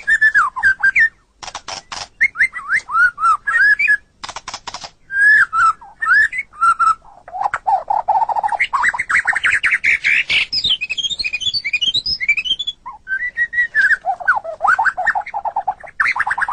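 White-rumped shama (murai batu) singing a varied song: clear whistled notes sliding up and down, broken by fast dry rattling clicks, with a quick run of high notes about ten seconds in.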